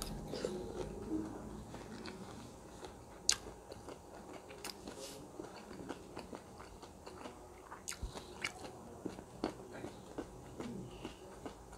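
Mouth chewing a spoonful of asinan Bogor: soft wet chewing of crisp raw vegetables (bean sprouts, cabbage, cucumber, pickled mustard greens) and peanuts, with sharp crunches scattered irregularly through it.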